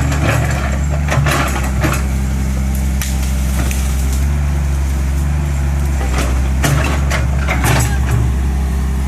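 Heavy diesel engine of an excavator running steadily, with several sharp knocks and cracks over it.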